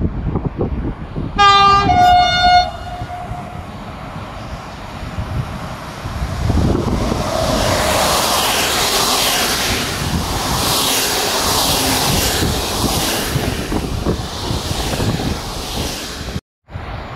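A train sounds two short horn blasts, then passes close by, its wheels and cars making a steady rush of rail noise. Wind buffets the microphone throughout.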